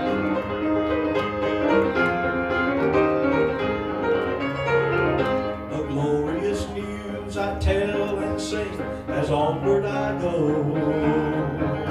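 Gospel band music led by piano, played steadily through the passage with no clear lead voice, as an instrumental lead-in to a song.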